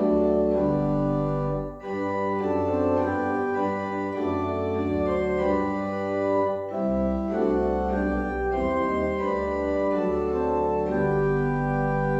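Organ playing slow sustained chords over a deep bass line, with two brief breaks between phrases.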